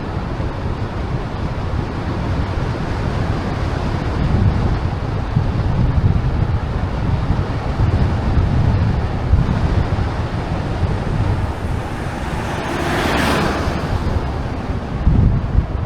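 Wind buffeting the microphone of a moving bicycle, a steady low rumble under a rushing hiss. About thirteen seconds in, a brief rushing swell rises and fades.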